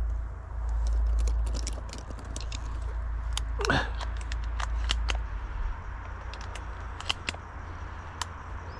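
Low wind rumble buffeting the microphone, easing after about five seconds, with scattered small clicks and ticks. A brief wavering squeak comes near the middle.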